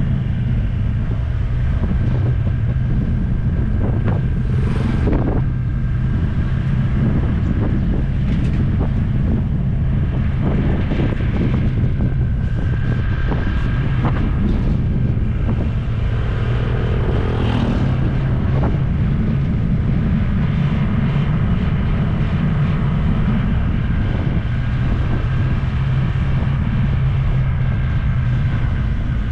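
Motor scooter engine running steadily while riding, with wind rushing over the scooter-mounted GoPro's microphone.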